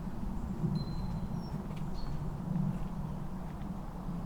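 A few brief, high bird chirps and squeaks over a low steady rumble.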